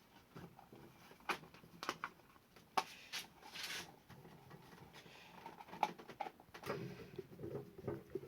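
Scattered light clicks and a short rustle of plastic cooler parts being handled as a plastic cover is fitted over the wiring.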